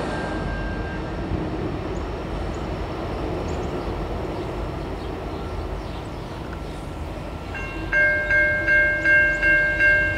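Steady rumble of a passing freight train slowly fading. About eight seconds in, a railroad grade-crossing bell starts ringing at about two strikes a second and becomes the loudest sound.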